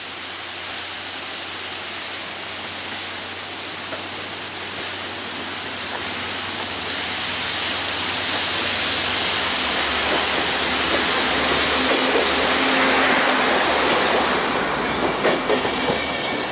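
Network Rail multi-purpose vehicle (MPV) running as a railhead treatment train, approaching and passing close. A rushing hiss builds steadily louder, a low diesel drone comes in about halfway, and a few sharp wheel knocks sound as it draws level near the end.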